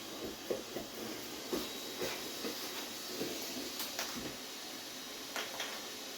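A run of light knocks and clicks, like things being handled and set down, over a steady hiss, thickest in the first four seconds with a couple more near the end.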